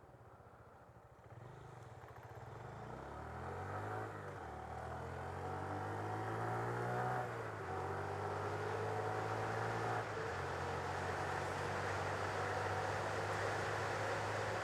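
Honda Grom 125's single-cylinder engine pulling away and accelerating, its pitch rising, dropping at upshifts about four and seven seconds in, then settling into a steady cruise. Wind noise grows as the speed rises.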